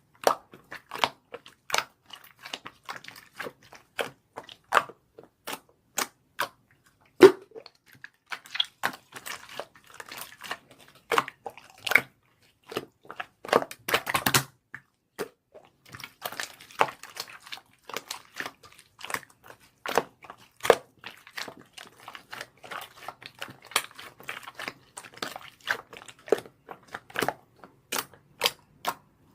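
Irregular sharp clicks and small crackling pops, several a second, with a denser burst of crackling about halfway through.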